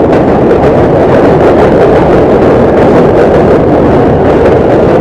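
New York City subway train pulling into the station, a loud, steady rumble of wheels on rail.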